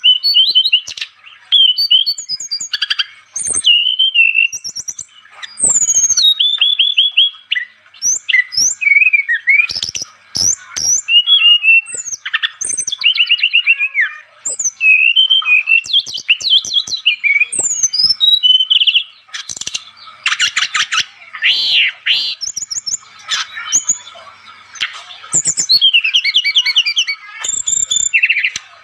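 Brown-chested jungle flycatcher (sikatan rimba dada coklat) singing hard: a fast, varied stream of chirps, slurred whistles and rattling trills, broken by short pauses.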